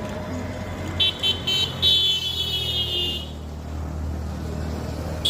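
A high-pitched vehicle horn gives a few quick short toots about a second in, then one longer blast of about a second, over a steady low rumble of engine and traffic.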